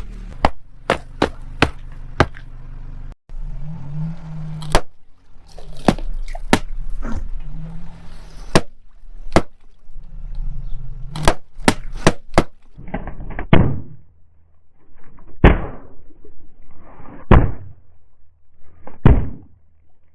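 Objects cracking and popping as a car tyre crushes them, a rapid run of sharp snaps over the low rumble of the engine, then about four louder crunches, each trailing off.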